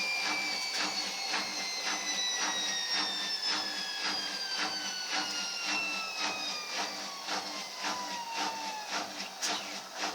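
Ariston washing machine's drum spinning down after the spin cycle. The motor's whine falls steadily in pitch, and a regular knock comes from inside the machine about twice a second. The owner takes the knock for a fault inside the machine.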